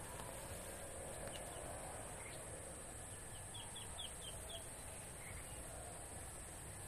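Faint rural outdoor ambience with a small bird chirping a quick run of about six short, high notes about halfway through.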